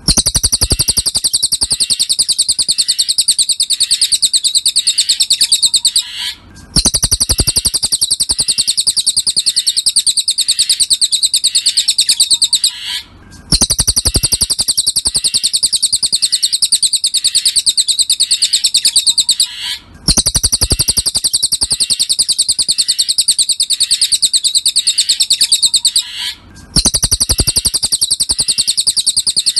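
Cililin song: a fast, unbroken run of high chirping notes in phrases about six seconds long, each followed by a brief pause and repeated over and over like a looped tutor recording.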